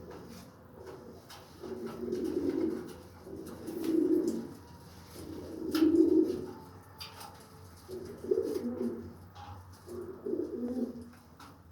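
Shirazi pigeon cooing: a series of low coos, about six phrases, repeated roughly every two seconds.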